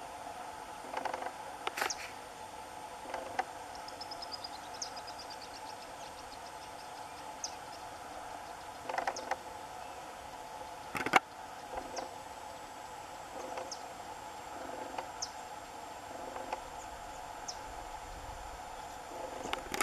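Short, high bird chirps and a brief trill from small songbirds, over a steady low hum. Two sharp clicks break in, the louder one about eleven seconds in.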